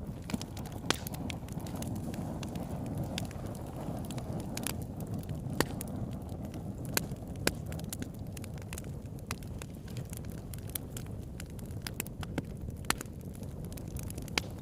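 Campfire burning, with a steady low rush of flame and irregular sharp crackles and pops of burning wood, a few of them louder.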